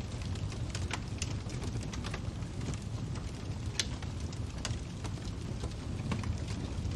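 Wood fire crackling: a steady low rumble with irregular sharp pops and snaps.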